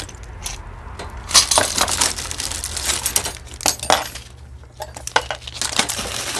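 Costume jewelry and beads clinking and clattering as pieces are handled and added to a box: irregular sharp clicks, the loudest about a second and a half in.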